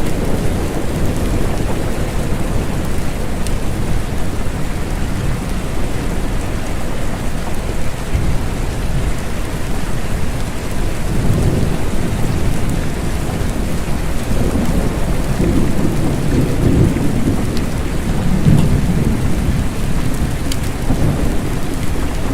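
Steady rain falling, with low rolling thunder that swells and fades several times through the middle and latter part.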